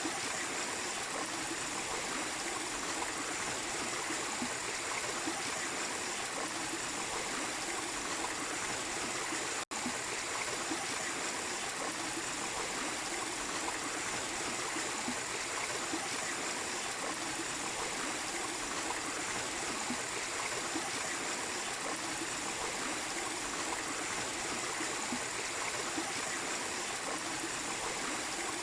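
Small waterfall splashing and rushing steadily, with a split-second dropout about ten seconds in.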